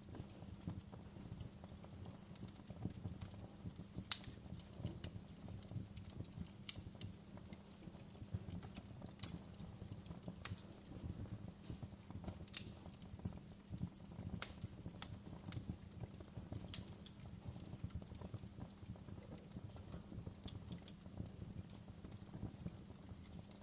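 Wood fire crackling in a fireplace: faint, irregular pops and snaps over a low rumble of burning, with one louder pop about four seconds in.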